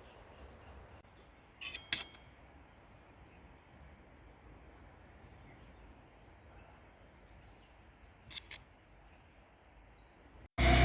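Faint outdoor ambience: a steady high insect drone with a few short rising chirps, broken by a couple of sharp clicks about two seconds in and again near the end. Just before the end it cuts suddenly to a much louder scene with traffic noise.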